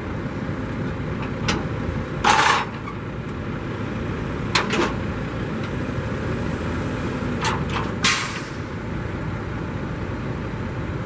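A car door being worked as someone gets into the car: several sharp clicks and short scuffing bursts over a steady background hum.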